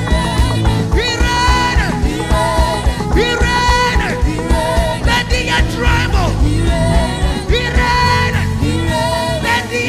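Live gospel worship band playing a steady drum and bass groove, with sung melodic phrases over it.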